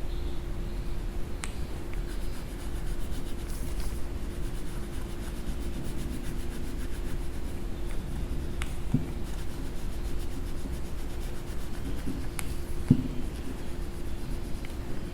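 A coloring tool rubbing back and forth on paper as a drawing is colored in, over a steady low hum, with a few light clicks scattered through.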